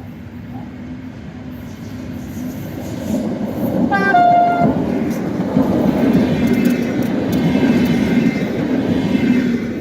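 EFE passenger train UTS610 approaching and passing, its running rumble growing louder. Its horn gives a short toot about four seconds in.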